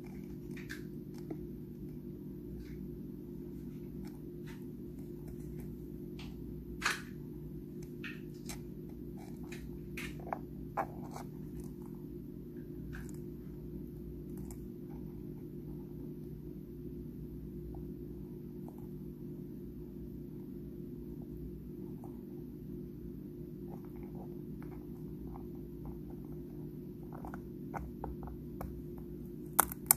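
Small clicks and crackles of a pet crab's claws picking at and crunching dried shrimp, scattered and irregular, with a few louder snaps about seven and ten seconds in and a quick run of them at the very end, over a steady low hum.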